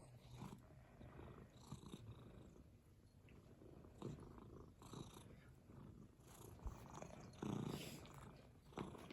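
A domestic cat purring faintly and steadily, swelling louder a few times.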